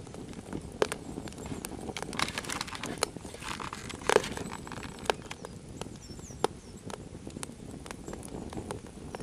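Swedish torch (Indian candle) log fire burning, the wood crackling with irregular sharp pops, the loudest about four seconds in.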